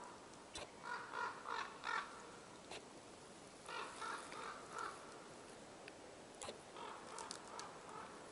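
A crow cawing, three runs of about four caws each, a couple of seconds apart.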